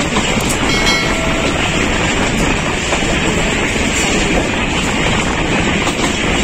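Moving passenger train heard from an open coach doorway: a steady rumble of wheels on the track with wind rushing over the microphone.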